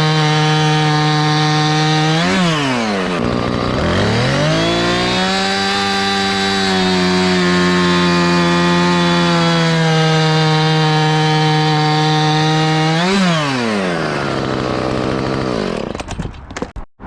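Chainsaw running under load while cutting into a log, hollowing it for a log beehive. The engine speed jumps up briefly about two seconds in, sags low and climbs back, jumps again near the end, then breaks off with a few clicks.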